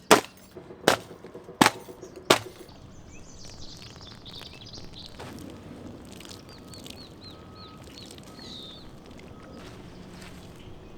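Four sharp knocks, evenly spaced about two-thirds of a second apart, then birds chirping faintly in short repeated notes.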